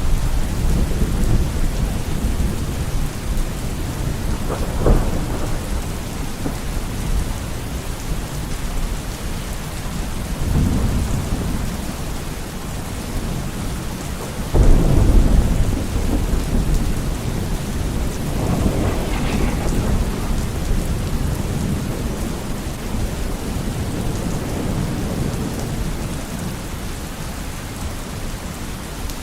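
Steady heavy rain with rolling thunder: deep rumbles swell and fade several times, with a sharp crack about five seconds in and a loud rumble starting about halfway through.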